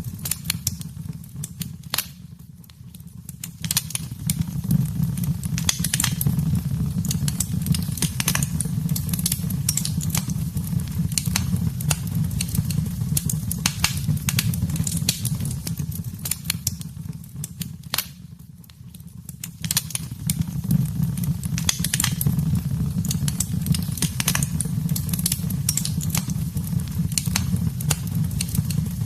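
Wood fire in a fireplace crackling and popping, with frequent sharp snaps over a steady low rumble of the flames. The sound dips briefly twice, about sixteen seconds apart.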